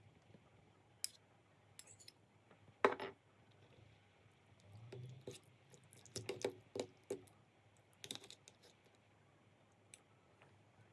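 Scattered small clicks and light knocks at irregular intervals, the loudest about three seconds in and a quick run of them around six to seven seconds in.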